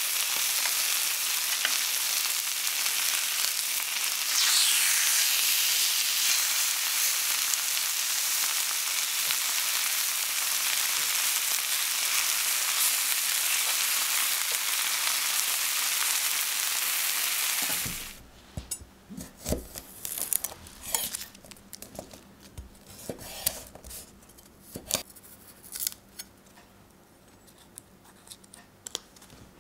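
Chicken breasts searing in hot vegetable oil in a frying pan alongside browned potatoes: a steady, loud sizzle. About two-thirds of the way through it cuts off suddenly to the quiet, scattered papery crackles and small clicks of garlic cloves being peeled by hand on a wooden board.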